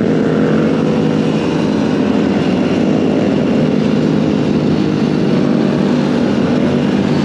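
Dirt bike engine running steadily under way, holding a fairly constant pitch.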